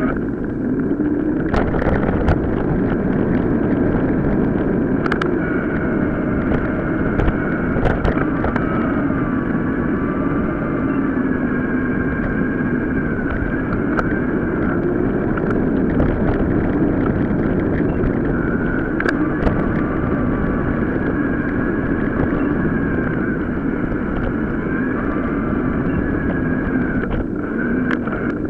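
Ride noise from a mountain bike going off road, played several times faster than real time: a steady rush with wavering whines and scattered sharp knocks and rattles from the bike over rough ground. It cuts off at the very end.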